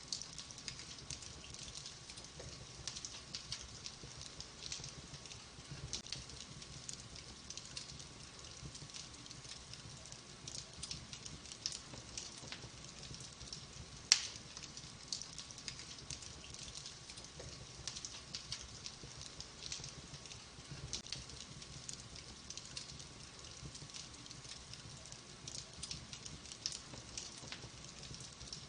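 Wood fire of burning logs crackling, with a steady soft hiss and frequent small irregular snaps, and one sharper, louder pop about halfway through.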